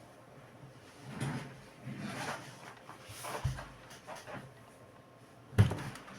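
Handling noises from working on a laptop: a series of short scrapes and clicks about once a second, with one sharp knock a little before the end.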